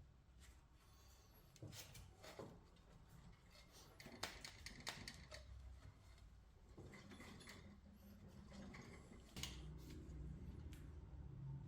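Faint, scattered clicks and light knocks of metal parts being handled, over a low hum.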